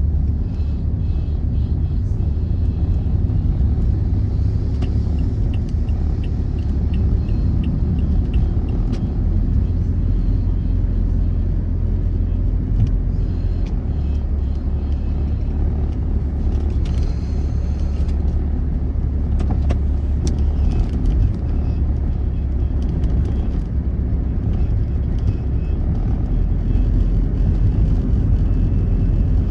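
Steady low rumble of road traffic or a moving vehicle, with faint scattered clicks.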